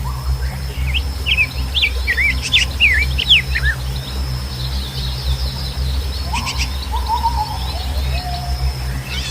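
Songbirds chirping: a quick run of sweeping up-and-down notes in the first few seconds, then a lower series of falling calls about two-thirds through. Under them runs a steady low rumble and a thin, steady high tone.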